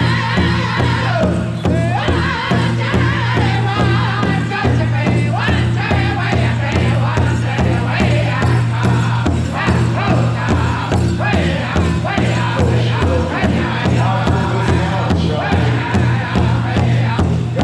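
Powwow drum group singing together in high voices over a steady, even beat struck on a shared bass drum.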